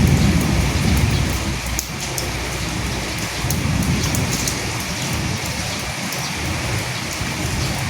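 Steady rain pattering on dead leaves, an even hiss dotted with many sharp drop ticks. Low rumbles of distant thunder swell and fade twice, near the start and again around the middle.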